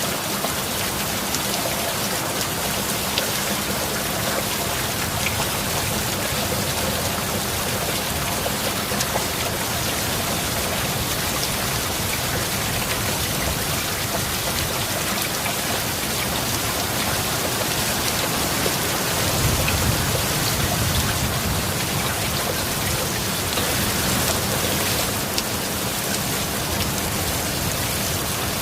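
Heavy rain falling steadily, a dense even hiss of drops on surfaces. A low rumble swells briefly about two-thirds of the way in.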